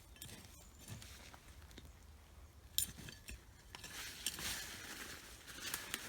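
Digging and handling sweet potato plants in soil: scattered rustles, crunches and small clicks, with one sharper click near the middle and denser rustling towards the end.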